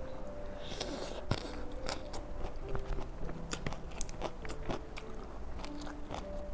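Close-up chewing and crunching of raw vegetables, with many short crisp crunches and a sharper bite just over a second in.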